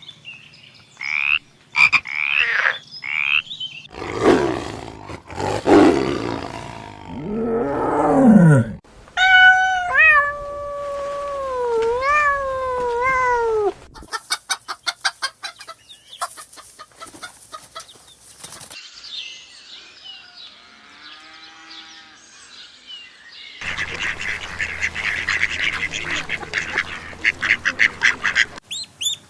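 A succession of different animal calls, one short clip after another. A pitched call rises and falls in the middle, and a fast, dense chorus of pulsing calls comes near the end.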